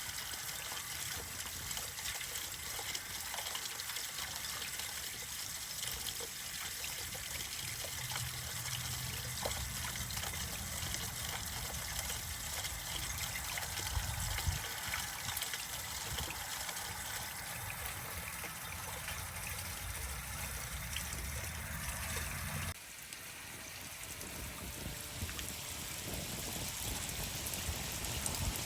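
Water running steadily down a rain chain, trickling and splashing as it flows. The sound changes abruptly about four-fifths of the way through, as if switching to another chain.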